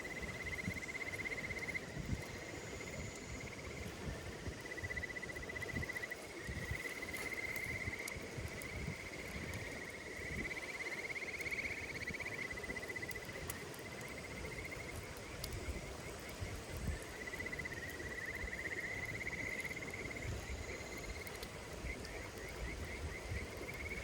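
Insects trilling in long, pulsing phrases at one high pitch, over a low rumble with scattered faint crackles from a bonfire.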